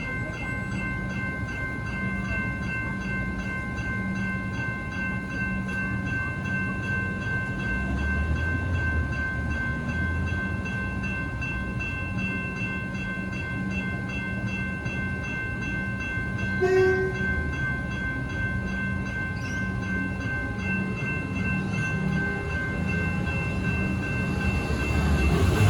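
Level-crossing electronic bells ringing continuously in a fast, even pattern, over the low rumble of a train running through the crossing.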